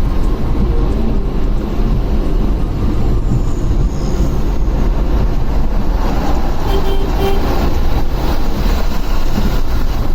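Steady rumble of riding a motorcycle through traffic: wind and road noise on the rider's microphone, with traffic around.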